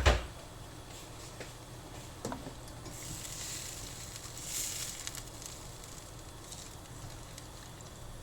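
Cooking sounds: a loud clatter right at the start, then a soft hiss that swells and fades around the middle, with a few light ticks.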